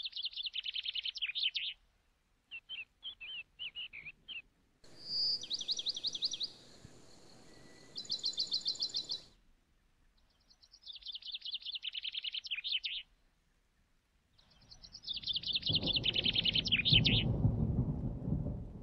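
Dubbed-in recording of birds singing: bursts of rapid high trilling chirps, each a second or two long, separated by dead silence where the sound cuts in and out abruptly. Near the end a low rushing noise rises under the last trill.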